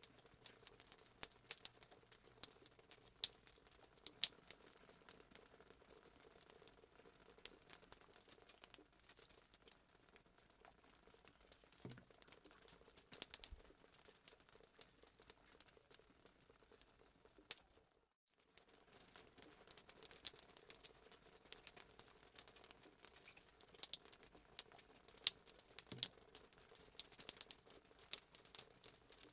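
Faint fireplace crackling sound effect: a steady stream of small pops and snaps from burning wood, cutting out for a moment about eighteen seconds in before resuming.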